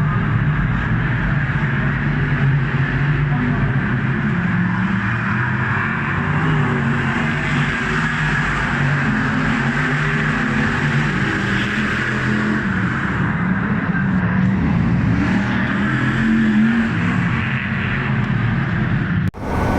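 Car engines running steadily, their pitch shifting slightly, with an abrupt brief drop near the end.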